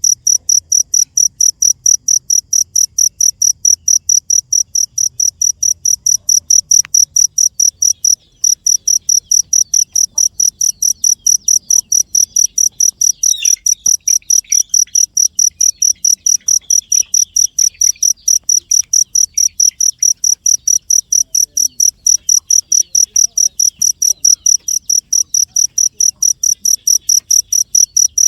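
Cricket chirping steadily and loudly, a high-pitched pulse repeated about three times a second, with a brief break about eight seconds in.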